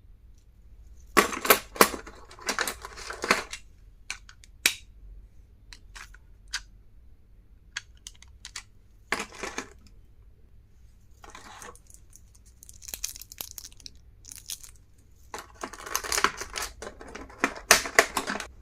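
Stationery items and their packaging being handled: irregular bursts of rustling and clicking, loudest about a second in and again near the end.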